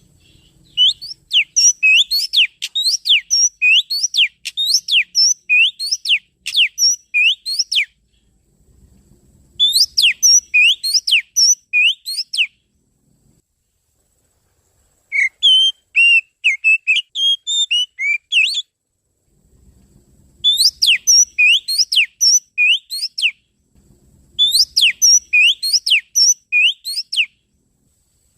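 Oriental magpie-robin (kacer) song, a lure call for attracting wild magpie-robins: five phrases of fast, sweeping whistled notes, each lasting a few seconds, with short pauses between them.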